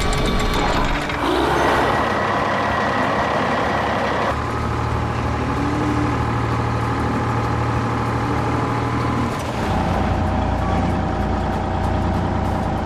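Truck engine running steadily, its sound changing abruptly a few times, about 1, 4 and 9.5 seconds in.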